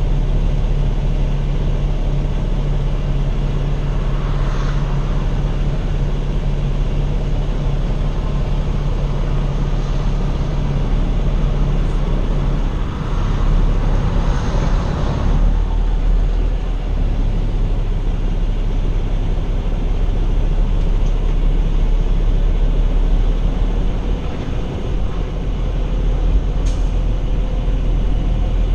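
Semi-truck driving down the road: a steady engine drone and road rumble, with brief swells of rushing noise about four seconds in and again around fourteen seconds.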